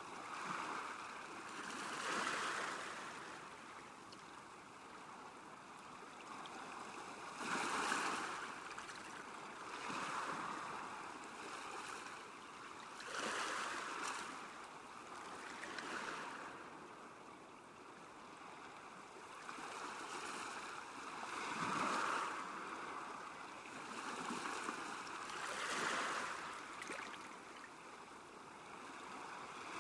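Small waves lapping at a lakeshore: a steady wash of water with a soft splash every two to four seconds.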